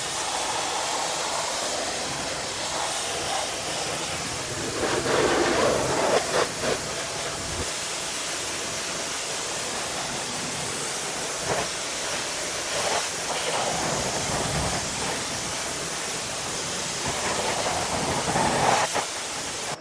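Pressure washer spraying water in a steady hiss against a wheel and tire, growing louder about five seconds in and again near the end as the spray moves closer.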